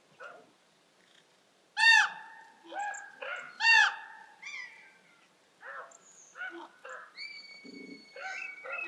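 Birds calling: two loud, drawn-out harsh calls about two seconds apart, with quieter, shorter calls between and after them, then a few higher, steady whistled notes near the end.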